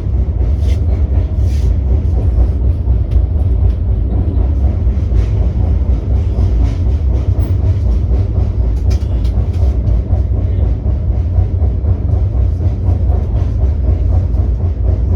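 Steady low rumble of a moving vehicle, with a few faint clicks over it.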